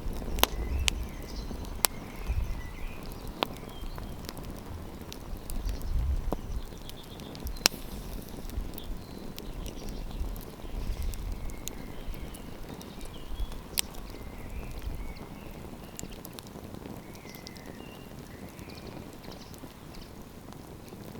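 Wood campfire crackling, with sharp single pops every second or few, louder and more frequent in the first half.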